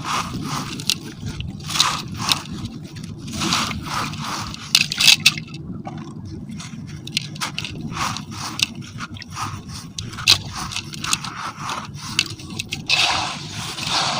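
Semi-gritty sand cement crumbling and scraping in a silver container: a steady run of irregular gritty crunches and scrapes, thicker and louder near the end.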